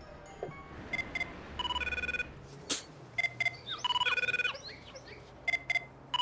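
Mobile phone ringtone ringing repeatedly: two short electronic beeps followed by a longer chime of several tones, the pattern coming round about every two seconds. A single sharp click sounds just under three seconds in.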